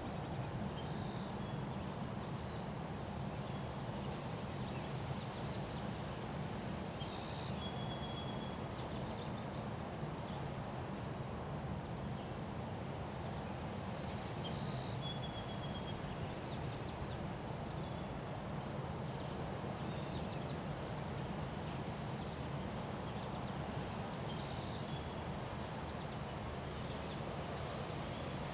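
Strong wind rushing steadily during a windstorm, with small birds chirping on and off over it, including a couple of short whistled notes.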